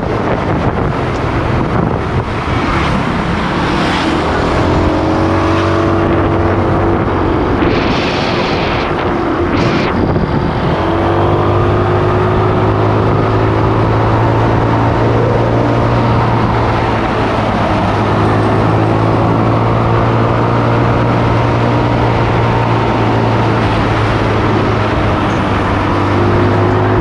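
Motorcycle engine running on the move, its pitch rising as it accelerates through the first part, then holding a steady drone from about eleven seconds on. A short hiss about eight seconds in.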